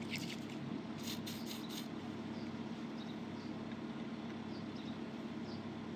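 Light metal clicks in the first two seconds as a cheap thread tap from a tap and die set is handled and set in a hole, then faint short high squeaks over a steady low hum.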